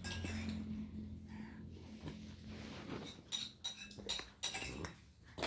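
Several light, sharp clinks of dishware or utensils, a few of them ringing briefly, mostly in the second half.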